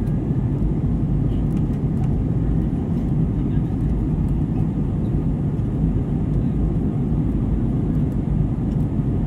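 Airliner cabin noise: a steady low rumble from the jet engines and airflow, heard from inside the passenger cabin.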